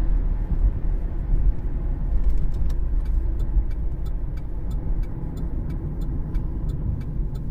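Cabin noise of a 2013 Cadillac CTS 3.0 on the move: a steady low road and drivetrain rumble. From about two seconds in, a light, even ticking comes in at roughly three ticks a second.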